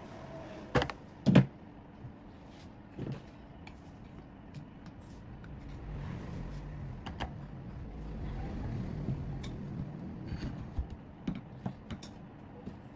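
Two sharp knocks about a second in, then scattered light clicks and taps over a faint low rumble.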